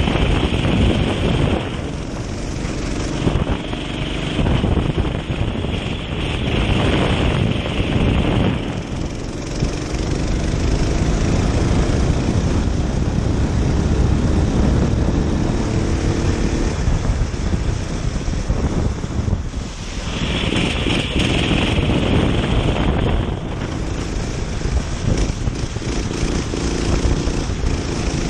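Kart engine running at race pace, its pitch rising and falling as the throttle is worked, under heavy wind rush on the microphone.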